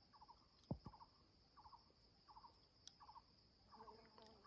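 Quiet outdoor night-style insect chorus: a steady high drone with a short pulsed chirp of three or four quick notes repeating about every two-thirds of a second. Two soft knocks just under a second in.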